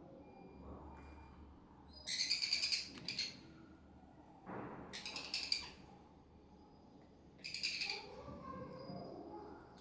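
Baby sun conure giving rapid, high-pitched chattering begging calls in three bursts, about two, five and seven and a half seconds in, while being hand-fed.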